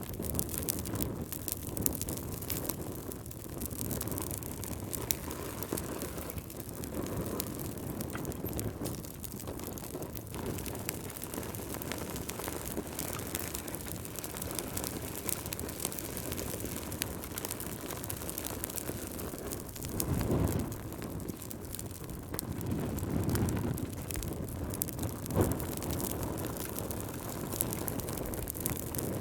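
Log fire crackling in a fireplace with scattered sharp pops, over a steady low rush of wind that swells in gusts, strongest twice about two-thirds of the way in.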